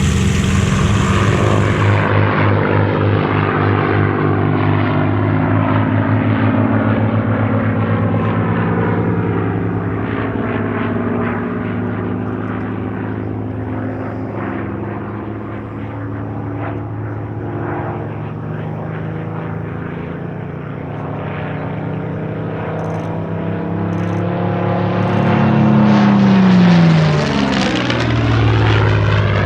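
Rolls-Royce Merlin V12 engine of a WWII piston fighter running through a display, its pitch and loudness shifting with the manoeuvres. Near the end it swells to its loudest and the pitch drops sharply as the aircraft passes close by.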